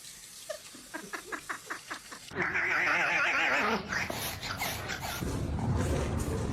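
A dog vocalising: a quick run of short pitched yelps, then one long wavering cry about two and a half seconds in.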